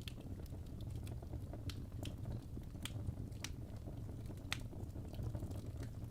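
Wood logs burning in a fireplace: a steady low rumble of flame with scattered sharp crackles and pops, the loudest about four and a half seconds in.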